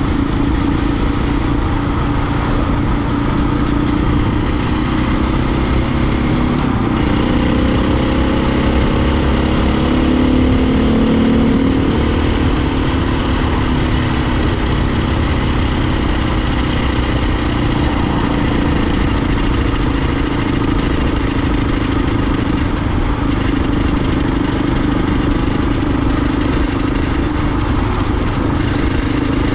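Dirt bike engine running under way at road speed, its note wavering and rising briefly about ten seconds in before settling, with wind rushing over the microphone.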